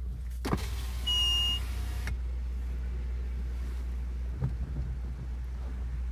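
Inside a car with the engine idling as a steady low hum. About half a second in there is a click, then a whirr with a high steady tone for about a second and a half, like a power window moving, and a knock near the middle.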